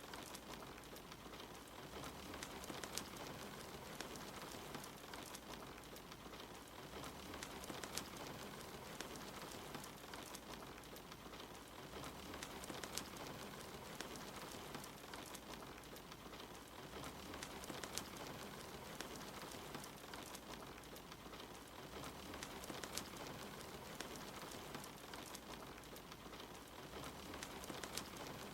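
Steady rain mixed with the crackle of a wood fire, with many small sharp pops scattered through it.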